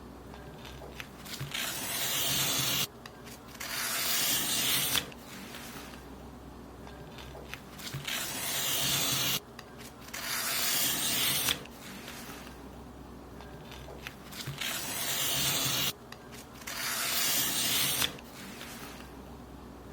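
Paper being cut in long hissing strokes, each lasting one to two seconds and often coming in pairs, with short pauses between them.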